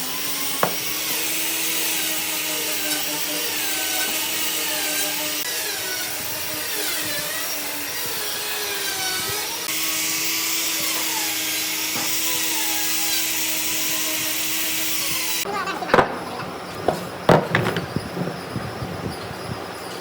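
A power tool running steadily, its pitch wavering slightly, until it stops abruptly about three-quarters of the way through. Several sharp knocks follow near the end.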